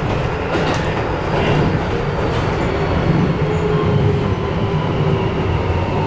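Train running, heard inside the car: low rumble and wheel noise with the faint whine of the Toyo IGBT-VVVF inverter and traction motors, its tones slowly falling in pitch.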